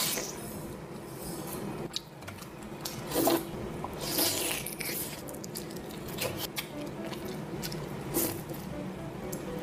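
Close-miked wet chewing and mouth smacking on a mouthful of whipped-cream-coated fried shrimp, with scattered sharp mouth clicks. The loudest is a squelchy burst about three seconds in.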